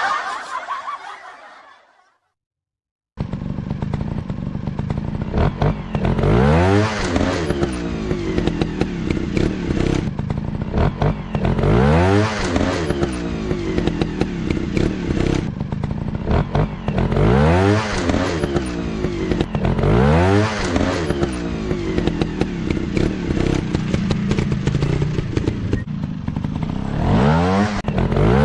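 Dirt bike engine running after a brief silence. Its pitch climbs and falls again several times as the throttle is opened and closed.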